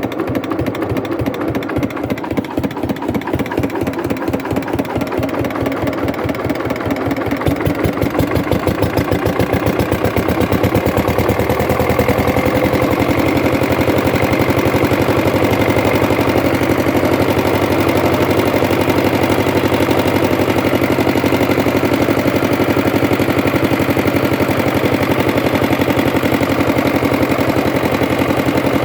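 Hatz diesel engine speeding up over the first ten seconds or so, its separate firing pulses coming faster and faster until they merge, then running steadily and louder at very high rpm.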